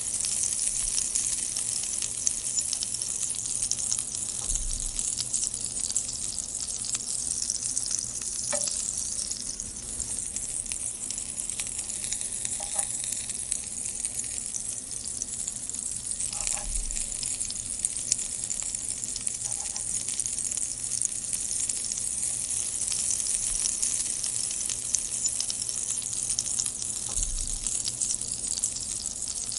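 Green chilli rings sizzling as they fry in a nonstick pan, a steady dense crackle with a few faint pops. Near the end a wooden spatula stirs them around the pan.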